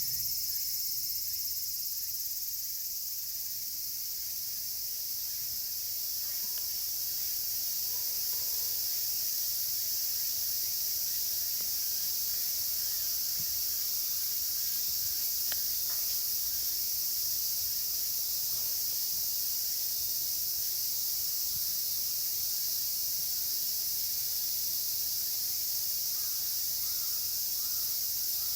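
Chorus of cicadas giving a steady, shrill, high-pitched drone.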